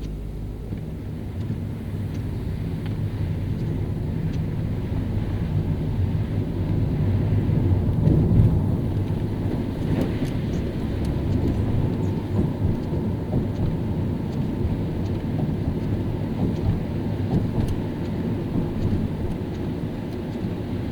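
Car driving on a wet road in the rain: a steady low rumble of tyres and engine that grows louder over the first few seconds, with faint scattered clicks.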